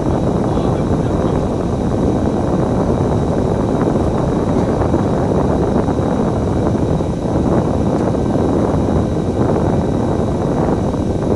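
Steady engine and road noise inside a moving double-decker bus.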